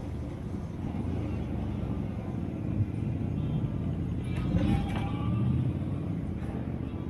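Honda Shadow 125's small V-twin engine running at low speed through a slow ride, getting louder for a moment about four and a half seconds in.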